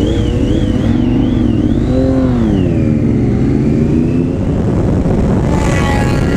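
Motorcycle engine accelerating, its pitch rising and falling with throttle and gear changes, under heavy low wind rumble on the rider's helmet microphone.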